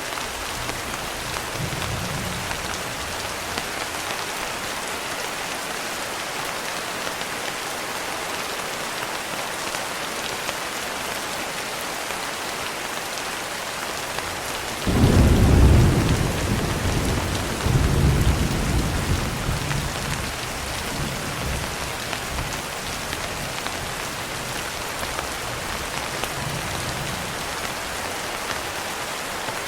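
Steady rain falling throughout, with a sudden clap of thunder about halfway through that rumbles on in waves for several seconds before fading back into the rain.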